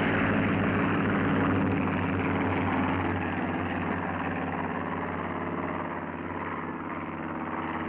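Steady drone of Curtiss P-40 fighters' piston engines and propellers, easing slightly toward the end.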